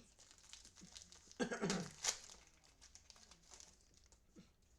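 Trading cards and their pack wrappers being handled: crinkling and rustling with small clicks, louder for a moment about one and a half seconds in.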